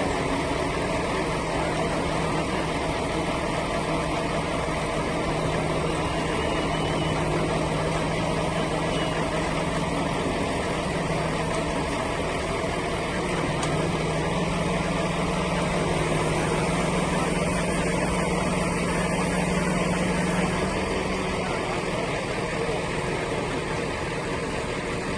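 An engine running steadily at constant revs, a low, even hum that does not rise or fall.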